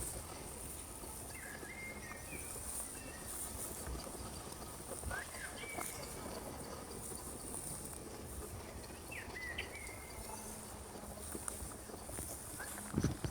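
Outdoor nature ambience: a steady high-pitched insect trill with a few short bird chirps scattered through it.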